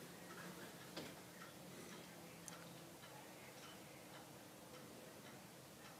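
Near silence, with a few faint, scattered clicks, the clearest about a second in and a sharper one about two and a half seconds in.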